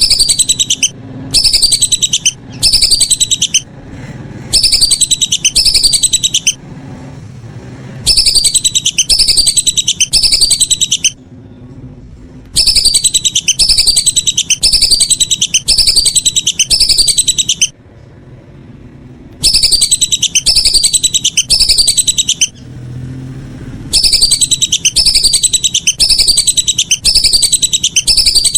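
Whistling ducks (belibis) giving high, whistled calls: runs of rapid notes, each falling in pitch, lasting one to three seconds, with short pauses between runs.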